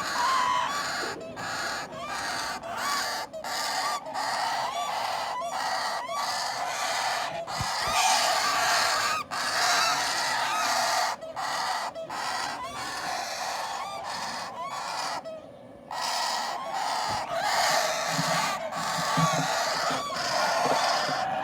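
Parrot chicks giving harsh, rasping begging calls almost without a break, as chicks do when being hand-fed, with a short lull a little past the middle.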